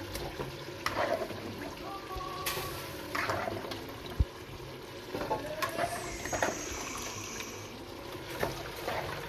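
Liquid sloshing and trickling in a pot of simmering oxtail stew, with a few scattered clicks and knocks of utensils.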